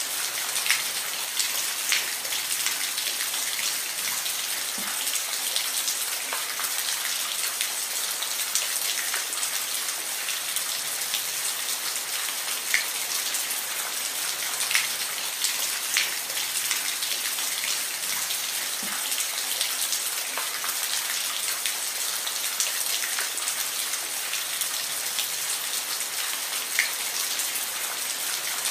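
Steady rain falling, an even hiss with scattered louder individual drops hitting a surface.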